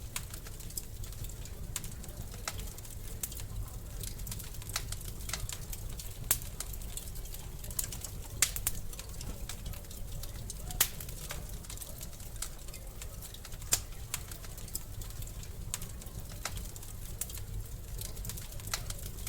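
Wood fire in a fireplace crackling: a steady stream of small sharp snaps, with a handful of louder pops, over a low steady rumble of the burning fire.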